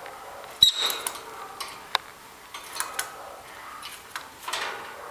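Lovebird chicks shuffling and nibbling: irregular small clicks and scratches, with a sharp knock and a brief high cheep about half a second in.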